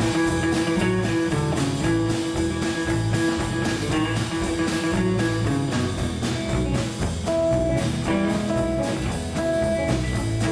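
Band playing a song's instrumental intro: guitar over a steady drum beat.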